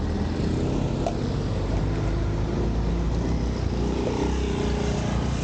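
Motor vehicle engine running steadily, a low rumble with faint wavering engine tones.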